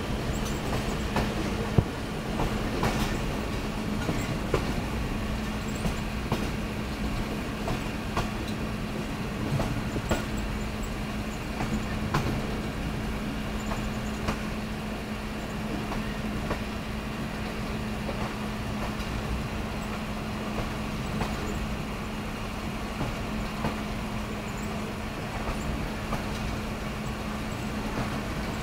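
Passenger train running slowly on a steep mountain section, heard from inside a carriage: a steady rumble and hum with occasional faint clicks of the wheels over the rails.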